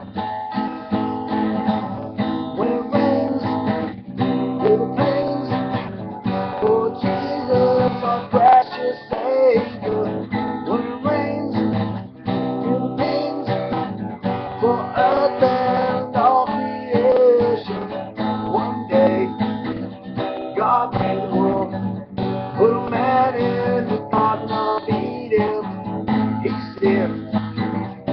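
Acoustic guitar strummed as a song's instrumental introduction, with a sliding melody line over the chords.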